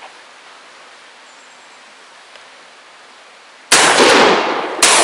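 Two gunshots about a second apart, close and loud, each followed by a long echoing tail.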